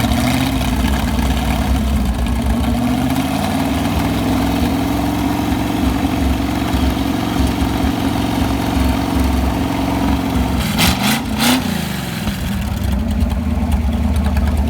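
Roughly sixty-year-old GM Corvette V8 engine running steadily at a fast idle. About ten seconds in, its speed sags and picks back up.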